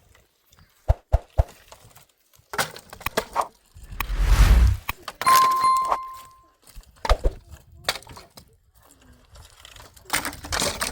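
Scattered knocks and clinks of handled objects, a loud rumbling thump about four seconds in, then one clear metallic ding that rings for over a second, as of a metal pot or utensil being struck.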